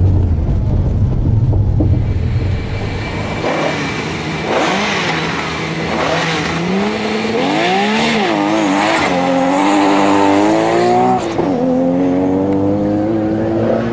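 A car's engine idles with a low hum, then the car launches off a sprint start line and accelerates hard. The revs climb, drop back at gear changes about twice, and climb again as it pulls away.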